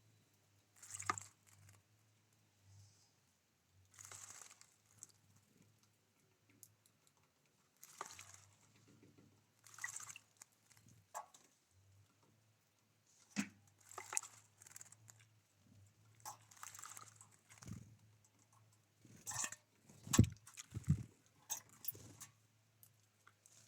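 Small birds at a feeder: scattered short rustles, flutters and taps, with two louder thumps about twenty seconds in.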